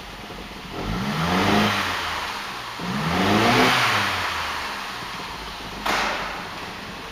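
Mitsubishi Outlander's 4B12 2.4-litre inline-four idling, revved twice in short blips that rise and fall back to idle. A sharp click sounds near the end.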